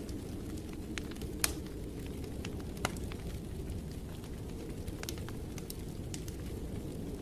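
Wood fire in a fireplace crackling, with scattered sharp pops over a steady low rumble; the loudest pops come about a second and a half in and just before three seconds in.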